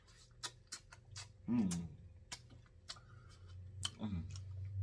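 A man eating crab close to the microphone: a run of sharp, wet mouth clicks and smacks as he chews. A short hummed 'mm' comes about a second and a half in, and a low, steady hum of enjoyment starts near the end.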